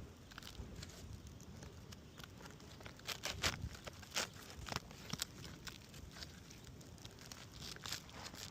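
Irregular clicks, scrapes and crinkling from hands and tools working on asphalt roof shingles, busiest around the middle.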